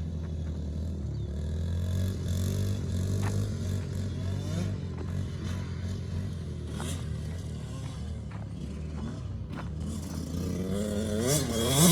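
Small off-road vehicle engines running and revving up and down, with a few light clicks and clatters. Near the end one engine comes closer and grows much louder, its pitch rising and falling as the throttle is worked.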